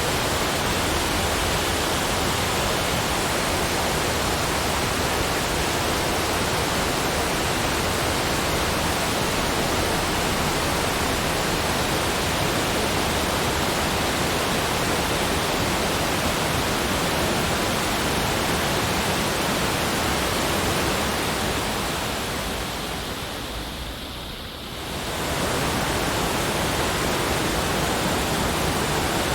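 Steady rushing water noise, like a waterfall, even and hiss-like across the whole range. It fades down over a few seconds near the end and then quickly swells back to full level.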